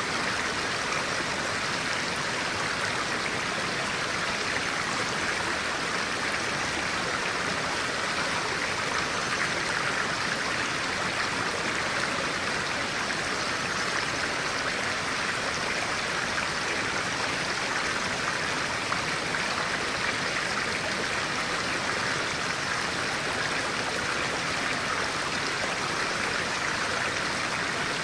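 A clear-water stream running steadily, a constant rushing with no breaks.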